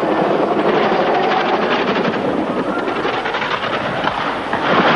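Helicopter rotor and engine running: a loud, steady, dense noise with a rapid chop from the blades.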